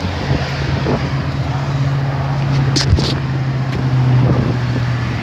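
A motor vehicle's engine running steadily, a low even hum, with a couple of brief clicks a little before the three-second mark.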